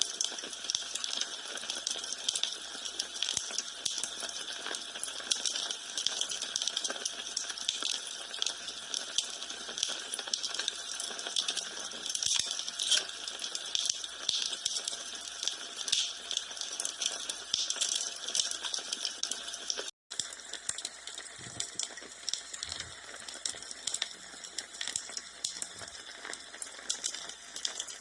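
Wood fire crackling in a fireplace: a dense, irregular stream of small snaps and pops. It cuts out for an instant about two thirds of the way through, then carries on.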